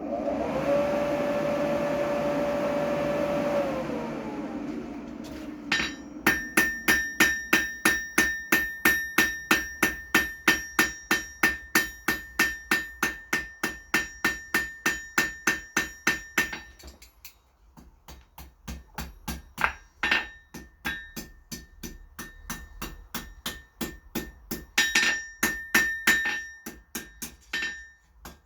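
Hand hammer striking hot mild steel bar on an anvil: a fast even run of blows, about three a second, each leaving a clear anvil ring, then after a short pause lighter, uneven blows as the bar's end is tapered and shaped. Before the hammering, a motor whirs up, runs steadily for a few seconds and winds down.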